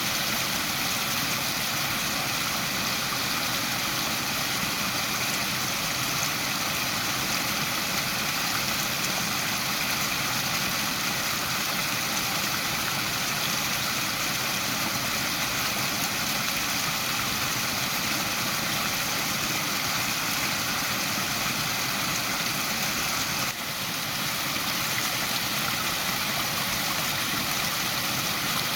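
Waterfall: a steady rush of falling water, with a brief dip in level about 23 seconds in.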